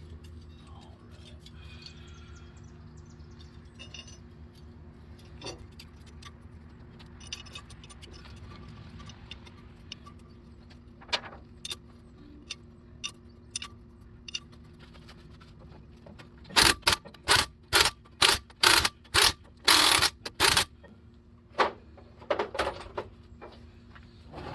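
Small metallic clinks and rattles of tools and parts being handled over a low hum, then a run of about eight loud, short bursts from a power tool, roughly two a second, with a few quieter bursts after.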